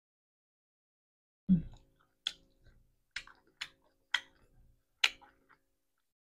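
Close-miked eating: mouth noises as a mouthful of rice and fried fish is chewed. There is one low bump about a second and a half in, then five sharp mouth clicks under a second apart.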